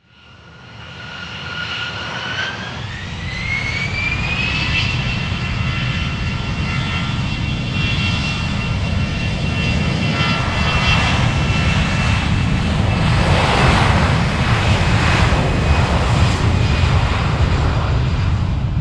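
Transport aircraft's engines running loud: a high whine rises in pitch over a couple of seconds, then holds steady above a heavy rumble that builds through the middle.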